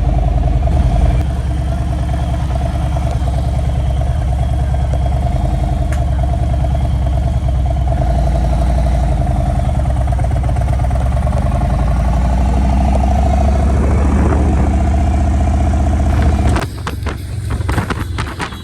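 Motorcycle engine running at a steady speed, a low, even drone that holds for about sixteen seconds, then drops away abruptly and a quieter sound with sharp clicks takes over.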